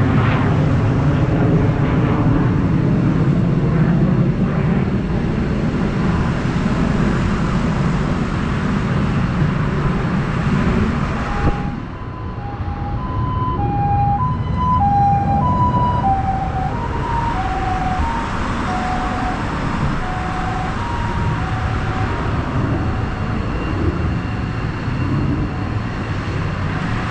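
A loud, low rumble for the first twelve seconds. Then, after a cut, an emergency vehicle's two-tone hi-lo siren alternates between a high and a low note, both sliding slowly lower in pitch and fading as the vehicle moves off.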